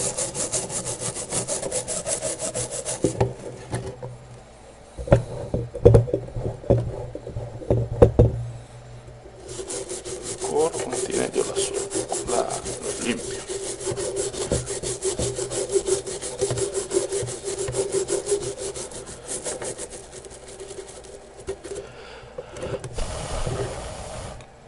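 A brush scrubbing a circuit board clean of solder flux with alcohol or thinner, in fast back-and-forth strokes. The scrubbing pauses for a few seconds partway through, and a few loud knocks fall in the pause. A steady hum runs underneath.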